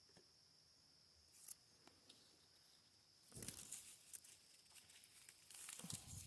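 Faint rustling and snapping of apple-tree leaves and twigs while apples are picked by hand, in two short bursts, one about halfway in and one near the end, with a single small click before them.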